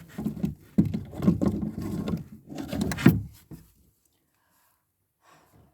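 A run of dull knocks and rubbing for about three seconds, the loudest near the end of the run, then it stops.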